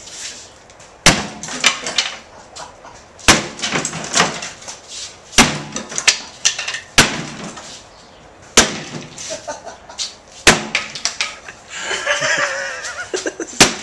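Sledgehammer blows smashing an object, seven heavy strikes spaced about every one and a half to two seconds, each followed by a brief clatter of breaking pieces.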